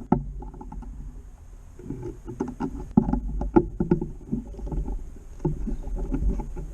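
Irregular rustling and clicking of hands working an electric fence line, untying it to fit a new clip, over a steady low rumble of wind on the microphone.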